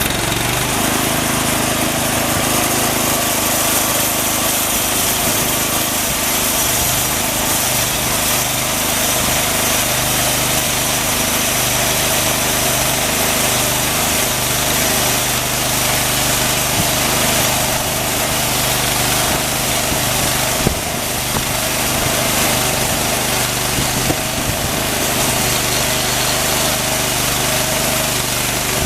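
Engine of a homemade band sawmill running steadily as its resharpened Wood-Mizer Turbo 7-degree band blade saws a slice off an old mesquite trunk. Two brief knocks come through, one a little past two-thirds of the way in and one a few seconds later.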